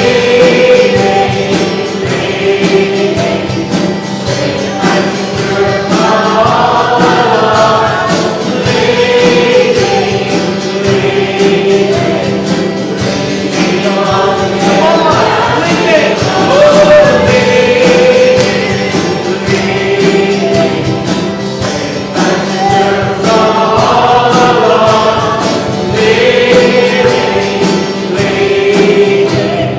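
Church congregation singing a gospel hymn together with instrumental accompaniment, in long held phrases.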